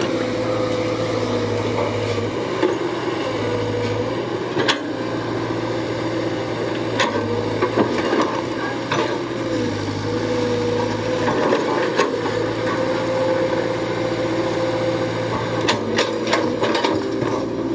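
Small electric motors of a toy excavator and dump truck whirring steadily, with a few sharp clicks along the way.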